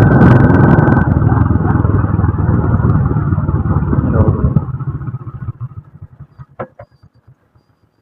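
A small engine running close by, loud at first, then its evenly spaced firing pulses fade away over a couple of seconds as it moves off.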